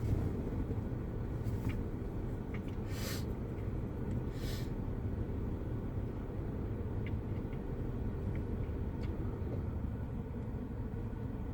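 Steady low rumble of vehicle and road-traffic noise, with a few short hissing sounds in the first five seconds.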